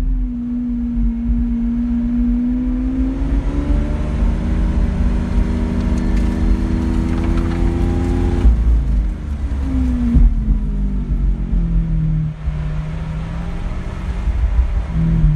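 Lamborghini Aventador's V12 engine heard from inside the cabin, pulling slowly in first gear with its pitch gradually rising. About eight seconds in the revs drop abruptly and fall away, then settle to a steadier, lower note, with a short rise and fall near the end.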